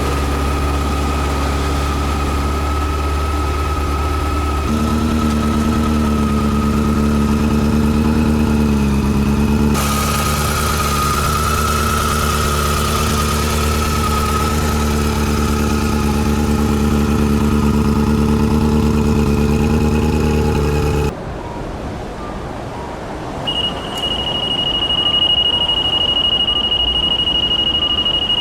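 Honda CB400 Super Four Hyper VTEC Revo's inline-four engine idling steadily, then cutting off suddenly after about twenty seconds.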